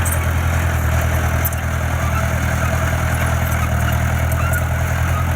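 Diesel engine of heavy earthmoving equipment running steadily, a low, even drone.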